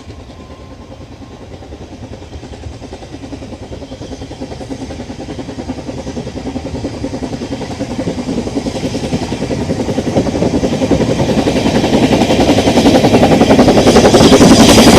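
Narrow-gauge steam locomotive and train approaching, its rapid chuffing and running noise growing steadily louder until it is passing close by. The tail of a high whistle tone fades out in the first second.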